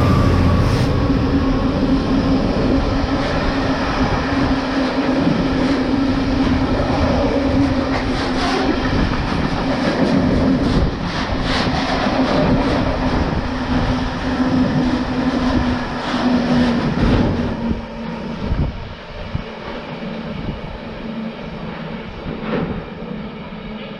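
GBRf freight train passing at speed: the locomotive's engine drones steadily, then the wagons clatter rhythmically over the rail joints, and the sound fades away about three-quarters of the way through.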